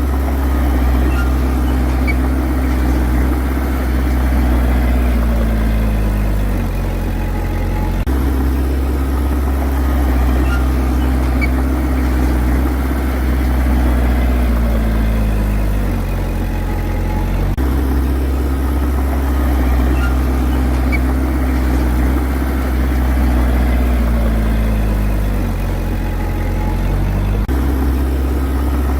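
Heavy diesel engine running steadily; its pitch sags slowly, as under load, then jumps back up abruptly about every ten seconds, three times.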